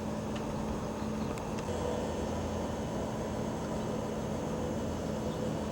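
Steady low rumble of background noise with a faint, even hum.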